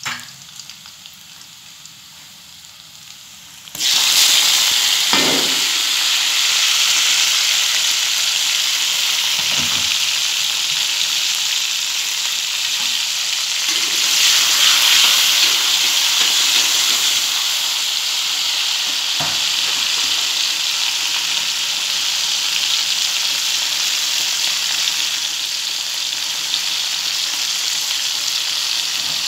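Garlic, chili and tomato frying in hot oil in a metal wok: a loud, steady sizzle that starts suddenly about four seconds in, with a few soft knocks along the way.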